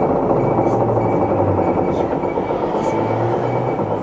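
Isuzu Erga Mio city bus running, heard from inside the cabin: a steady diesel and drivetrain drone with road noise and a few light rattles.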